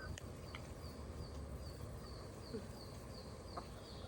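Faint outdoor farm ambience: a short high chirp repeated steadily, about two to three times a second, over a low rumble, with a couple of faint clicks and one brief falling call partway through.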